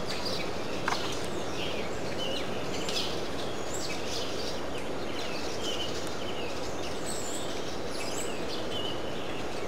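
Birds chirping over and over above a steady background noise, with a single sharp click about a second in.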